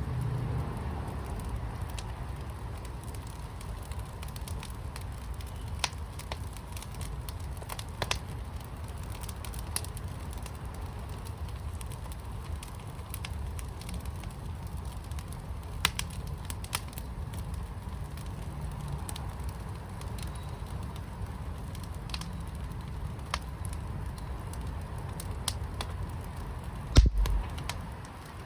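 Fire burning in a fire pit, crackling with scattered sharp pops over a steady low rumble. A louder low thump comes about a second before the end.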